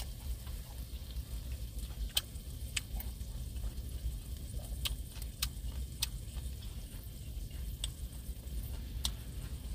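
Food frying in a pan: a soft sizzle with a dozen or so scattered sharp spattering pops over a low steady rumble.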